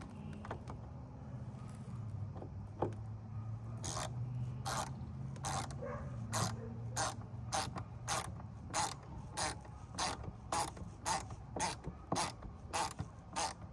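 Hand ratchet being worked back and forth, giving a steady run of sharp clicks, a little under two a second, from about four seconds in.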